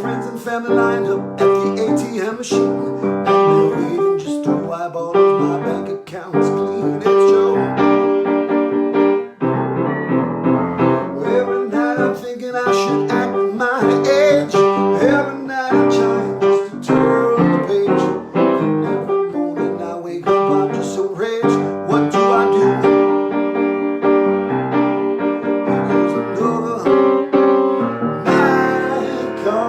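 Solo piano playing an instrumental passage of a pop-jazz song, with chords and a melodic line and no sung words.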